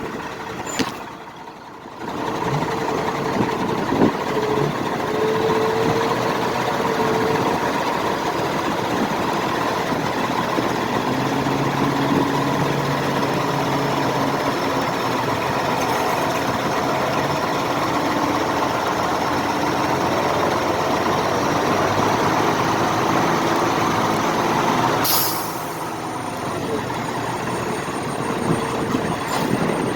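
A heavy military truck engine running steadily, its pitch shifting now and then. The sound breaks off abruptly about two seconds in and again near the end.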